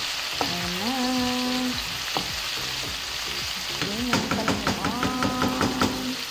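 Chicken livers sizzling in a non-stick frying pan as a wooden spatula stirs them. From about four seconds in, a quick run of clicks as the spatula knocks and scrapes against the pan.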